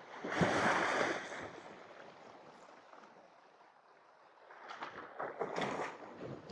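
Sea waves washing against shore rocks, with a loud surge about half a second in and a second, rougher wash building from about four and a half seconds.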